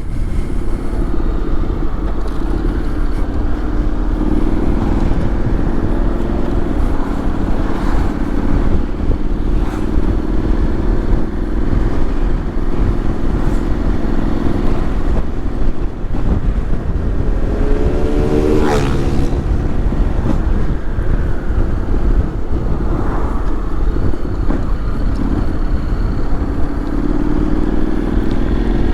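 Honda X-ADV 750 parallel-twin engine running steadily while riding, under a heavy low rumble of wind on the microphone. About two-thirds of the way through, the engine note briefly rises and falls.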